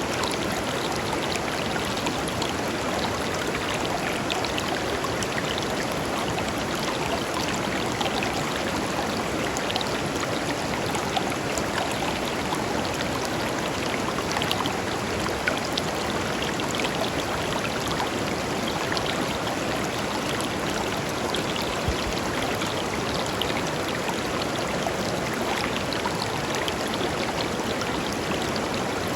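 Shallow river flowing steadily over stones, a continuous even rush of water with many small splashes and burbles.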